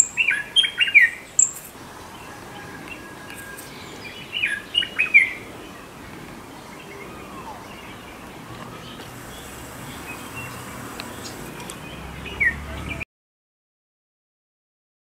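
Birds chirping in quick clusters of short calls, at the start, again about four to five seconds in and once more near the end, over a steady faint outdoor hiss; the sound cuts off abruptly shortly before the end.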